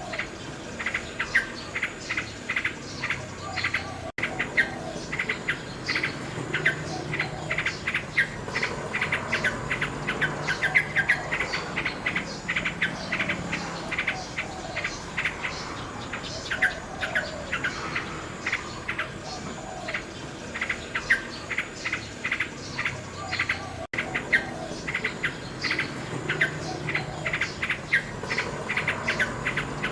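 Nightingale singing: fast runs of sharp repeated notes mixed with lower warbled phrases, with two momentary dropouts in the recording.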